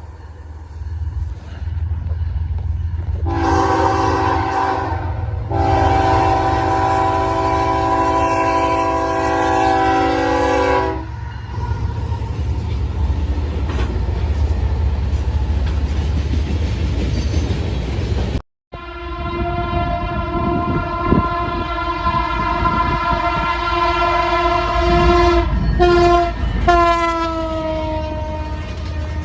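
Locomotive horn sounding a short blast and then a long one over the rumble of a passing train. After an abrupt cut, another train's horn is held for several seconds and drops in pitch as it goes by.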